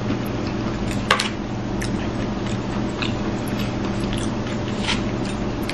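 Close-miked mouth-closed chewing of soft, juicy hearts-of-palm noodles and chicken, with a few short wet mouth clicks about one, two, three and five seconds in. A steady low hum runs underneath.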